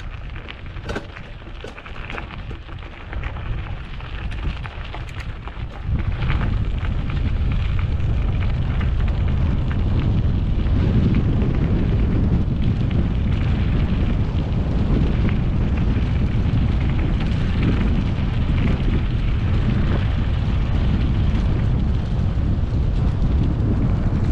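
Wind buffeting the microphone on a mountain bike ride, with tyres crunching over dirt and scattered clicks and rattles at first. About six seconds in the wind rumble jumps much louder and stays steady as the bike picks up speed downhill.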